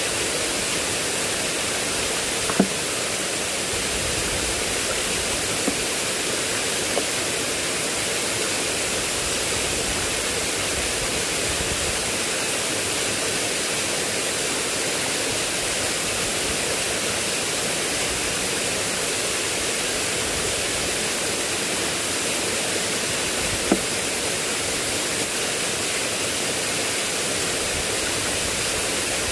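Steady, unbroken rushing of water, with a handful of brief sharp ticks over it.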